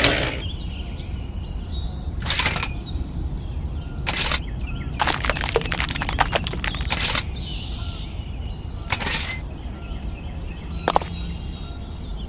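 Outdoor ambience with a steady low rumble and birds chirping faintly, broken by short noisy scraping or crackling bursts. The bursts come singly, with a longer run of them in the middle.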